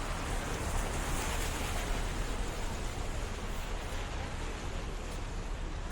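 Steady wet-weather city street ambience: an even hiss, with a low rumble underneath and no distinct events.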